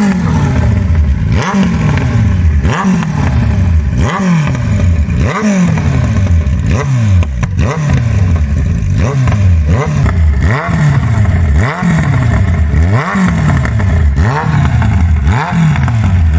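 Kawasaki Z1000 inline-four through an aftermarket Toce exhaust, revved over and over while standing: the throttle is blipped about once every second and a bit, each rev shooting up sharply and then falling back toward idle.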